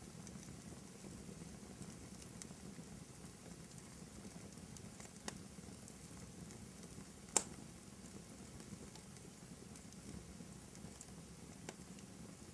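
Wood fire burning in a fireplace: a low steady rumble with occasional crackles and pops, the sharpest pop a little past halfway.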